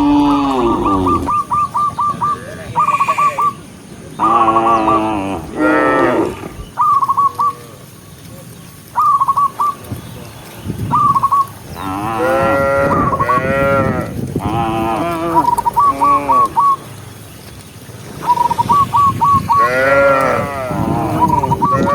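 Cattle mooing again and again, one long call after another and sometimes overlapping, with short runs of quick, high repeated chirping notes in the gaps between calls.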